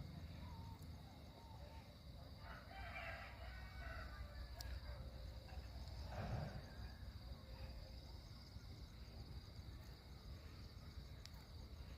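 A rooster crowing, one drawn-out crow about three seconds in, over a steady high-pitched hum.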